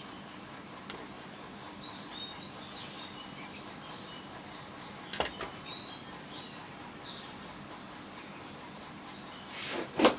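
Small birds chirping and twittering in the background, over a very high, evenly repeating insect-like pulse. A brief loud rustle comes just before the end.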